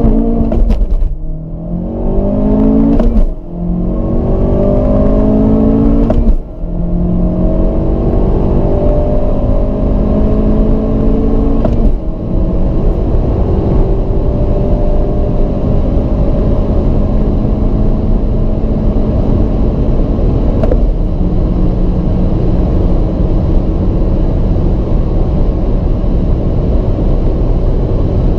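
Honda Civic Type R's 2.0-litre turbocharged four-cylinder accelerating hard through the gears, its pitch rising and then dropping briefly at each of five upshifts from first to sixth. The climbs between shifts grow longer, and the last one, in sixth, is a long, slow rise.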